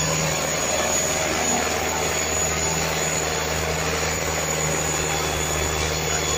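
Tractor diesel engine running steadily with a loud, even drone.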